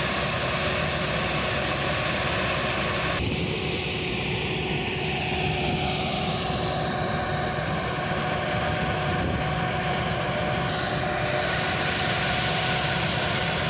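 Tractor engine running steadily with a constant hum, used for harvesting paddy. The high hiss in the noise drops abruptly about three seconds in.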